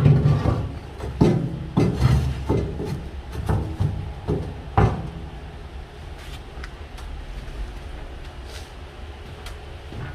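A run of knocks, clunks and scrapes for about five seconds as heavy stones are handled and set onto a wood-stove body under construction, then only a steady low hum.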